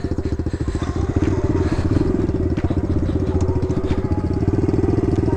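Kawasaki KLX110's small single-cylinder four-stroke engine running steadily at low speed, with an even, rapid putter.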